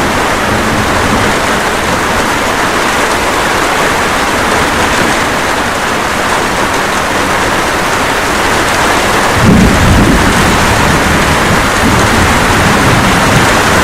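Steady rain falling, joined about two-thirds of the way through by a sudden low rumble of thunder that keeps rolling.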